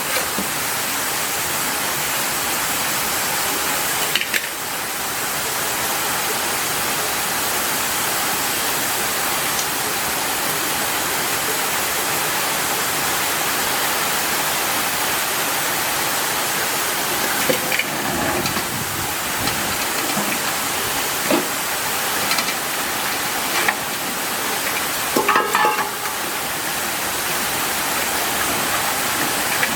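Steady rain falling, an even hiss that holds throughout, with a few brief louder sounds breaking in around a quarter of the way in, past the middle and near the end.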